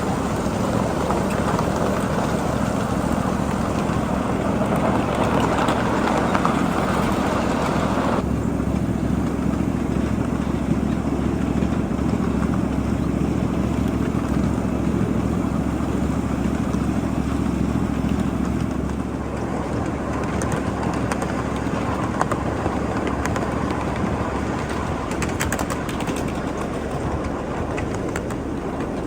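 7.5-inch gauge ride-on miniature train running along the track: a steady rumble of wheels on rail, with a few clicks near the end. The higher hiss drops away about eight seconds in.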